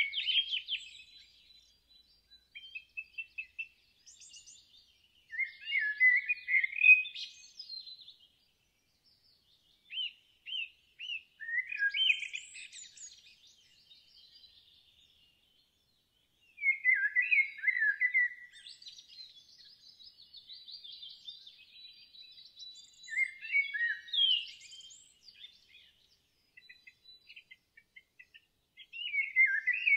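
Songbird singing short, quick warbled phrases, one every few seconds, with quiet gaps between them.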